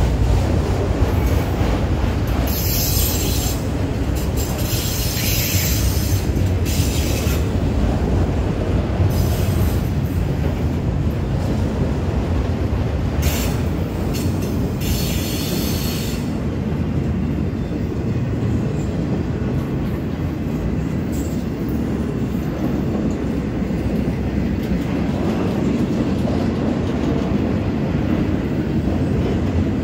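Freight train cars rolling past at a grade crossing: a steady rumble of steel wheels on rail. Several short bursts of high-pitched wheel squeal come in the first half.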